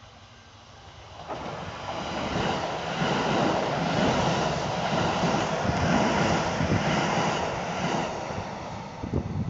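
Kintetsu Hinotori limited express electric train passing by: a rushing rumble that swells in about a second in, stays loud for several seconds, then dies away near the end.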